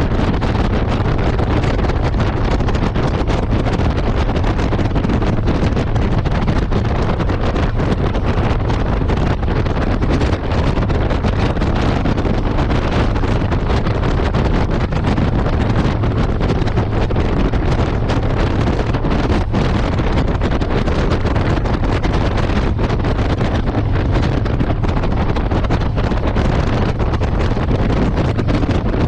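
Wind rushing over the microphone on a moving motorcycle, loud and steady with constant buffeting, and the motorcycle's engine running low underneath.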